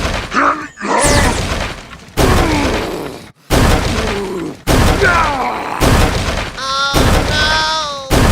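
A run of heavy crashes and smashes, about one a second, each starting suddenly and dying away. Near the end a wavering pitched tone sounds over them.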